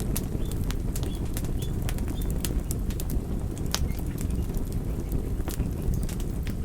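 Wood fire crackling, with sharp irregular pops and snaps over a steady low rumble of flames. A few faint, short, high squeaks come in the first couple of seconds.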